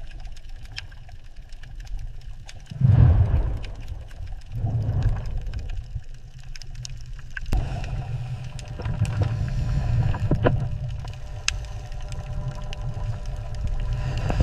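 Low, surging rumble of moving water with scattered faint clicks, swelling loudest about three seconds in.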